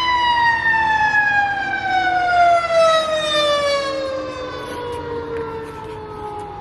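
Emergency vehicle siren sounding one long tone that slides slowly and steadily down in pitch, fading a little in its second half.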